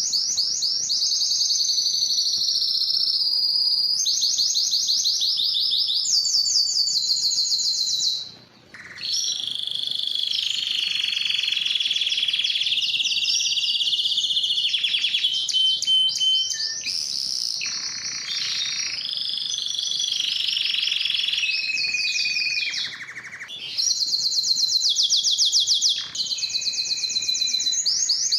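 Domestic canary singing a long song of rapid trills and held whistled notes, with a brief pause about a third of the way in.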